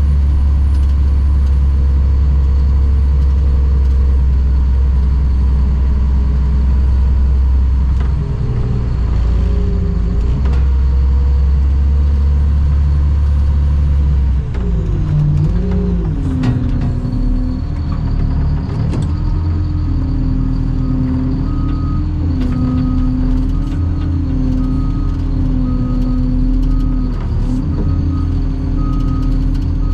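Cat 725 articulated dump truck's diesel engine running, its pitch shifting about a quarter and again about halfway in; from about two-thirds in a reverse alarm beeps steadily as the machine backs up.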